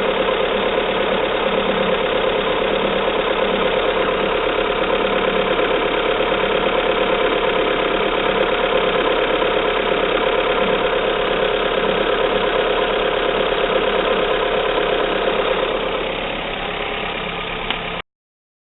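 Fiat Doblò 1.6 16v Natural Power engine running steadily at idle with a knock that the owner puts down to the timing belt. The sound softens slightly near the end, then cuts off abruptly.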